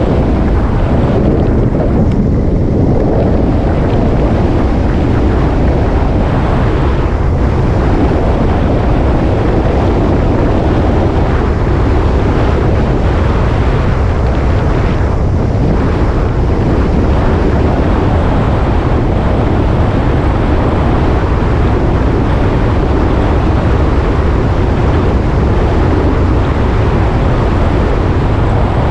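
Motorcycle under way on the road: a steady low engine drone mixed with heavy wind rush on the microphone.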